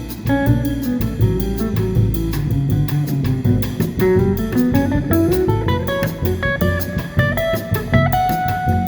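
Jazz trio playing live: a guitar picks out a melodic line over drum kit and a low bass part.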